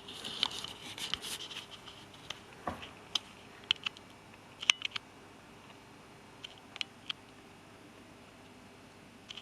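About a dozen short, sharp clicks at irregular intervals, more of them in the first five seconds, over faint room noise.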